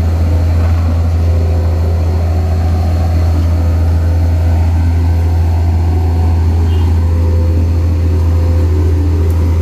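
Heavy road-building machinery's diesel engine running steadily, a loud, unbroken deep drone with a steady hum above it.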